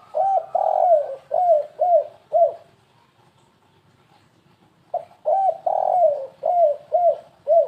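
Spotted dove (tekukur) cooing in two phrases about two seconds apart, each of about five short arched coos with a longer, louder note early in the phrase. This is the stuttering 'kuk 3 gagap' style of tekukur song.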